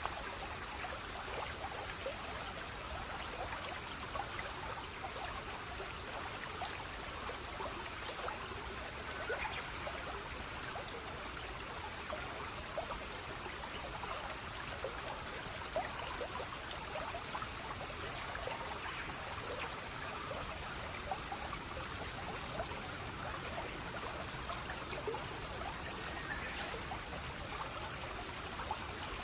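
Running water of a small stream or cascade, trickling and babbling steadily with a constant patter of small splashes.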